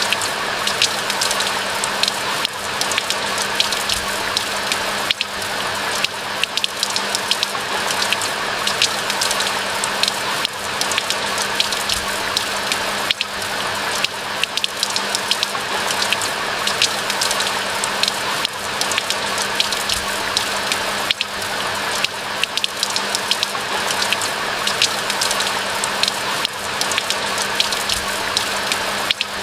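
Steady rain falling through a forest, a dense patter of many drops ticking on leaves and surfaces. A faint low hum runs underneath.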